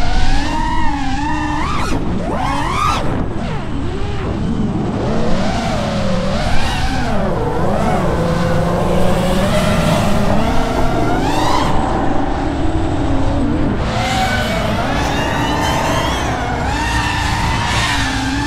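FPV quadcopter, an iFlight Nazgul5 5-inch freestyle drone, in flight: its motors and propellers whine continuously, the pitch rising and falling as the throttle changes.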